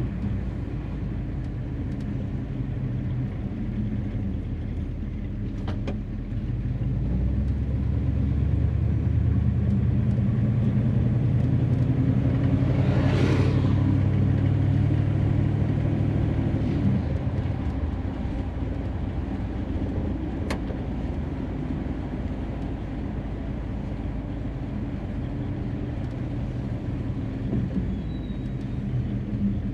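1957 Chevrolet 210's engine running as the car is driven, pulling louder for about ten seconds from around six seconds in before easing back. A brief whoosh swells and fades in the middle.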